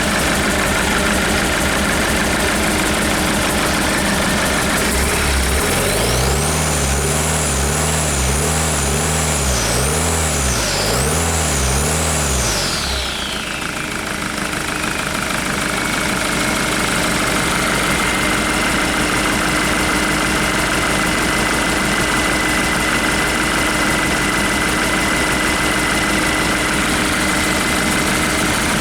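Hyundai/Kia D4CB 2.5-litre four-cylinder common-rail diesel engine idling, revved up and down about six times in quick succession a few seconds in, then settling back to a steady idle.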